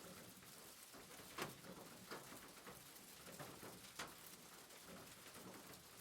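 Faint steady rain patter, with a few louder drop-like ticks, clearest about a second and a half in and again at four seconds.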